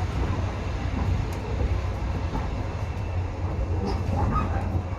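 Steady low rumble of a moving train heard from inside a passenger carriage, as the wheels and running gear roll along the track.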